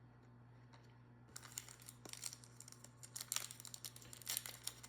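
Trading cards and their wrapping being handled: crinkling with many small sharp clicks, starting about a second and a half in. A steady low hum sits underneath.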